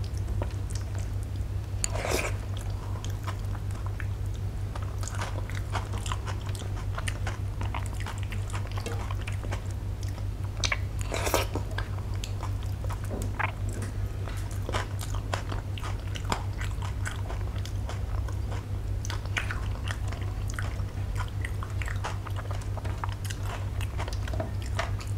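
Close-miked eating: chewing of milk-soaked rice, with many small wet clicks and a louder smack about two seconds in and again near the middle, while fingers squish rice on a steel plate. A steady low hum runs underneath.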